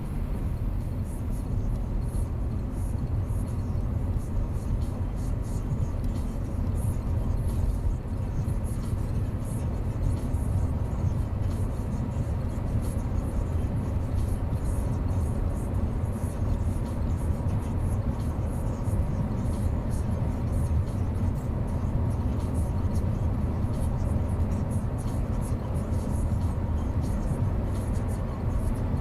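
A car driving along the road: a steady low rumble of road and engine noise.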